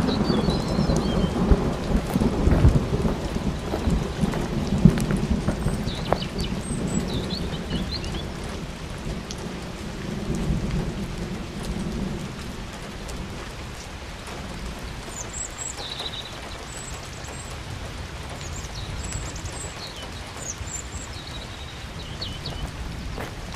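Steady rain with rolling thunder: a deep rumble over the first half that fades away about halfway through, leaving the rain hiss. A few faint, short high chirps come and go over the rain.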